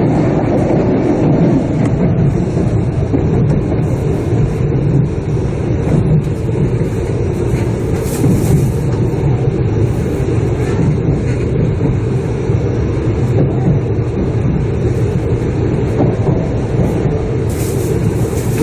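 Shinkansen running, heard from inside the passenger car: a steady low rumble of wheels and running gear.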